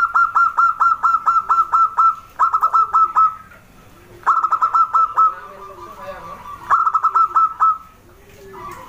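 Zebra dove (perkutut) calling: four bursts of rapid, clipped cooing notes, with softer, lower notes in between.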